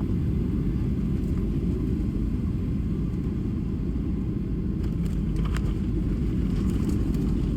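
Steady low rumble of a jet airliner's cabin in flight: engine and airflow noise heard from a passenger seat. There are a few faint clicks in the second half.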